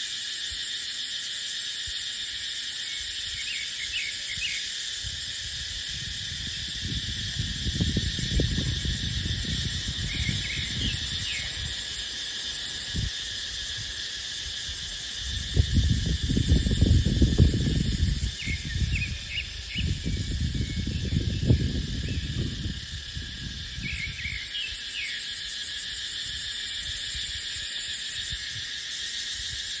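Cicadas droning steadily in a high, even chorus. Wind gusts buffet the microphone with a low rumble for a few seconds about a quarter of the way in, then more strongly in the middle.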